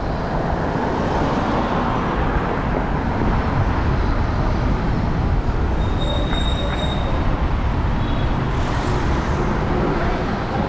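Steady road traffic noise heard while riding through city streets, with a brief high-pitched squeal about six seconds in.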